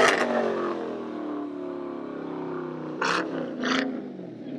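A car engine, loud at the start, then its note falling slowly and steadily, with two short sharp noises a little after three seconds in.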